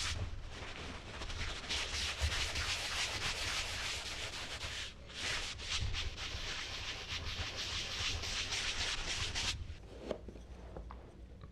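Charcoal being rubbed and stroked across smooth Bristol paper: a dry, scratchy hiss of quick back-and-forth strokes that stops abruptly near the end, followed by a couple of faint light taps.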